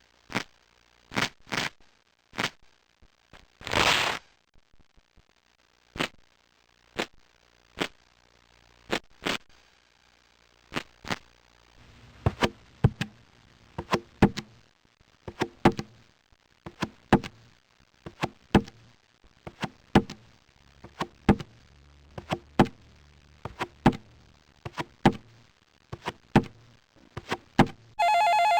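A series of short, sharp knocks and clicks. They are spaced irregularly at first, with a brief noisy burst about four seconds in, then come in a quicker, more regular run from about twelve seconds on.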